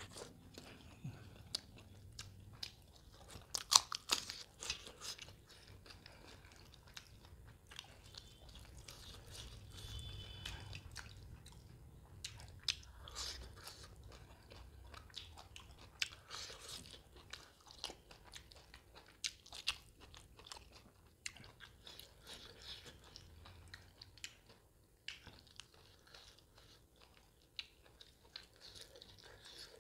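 Close-miked chewing and biting of mutton boti curry and soaked roti, with irregular wet mouth clicks and smacks; the loudest bite comes about four seconds in.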